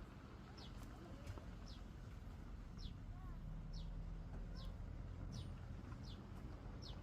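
A bird calling a short, high, falling note over and over, about one every second, with a low steady rumble underneath.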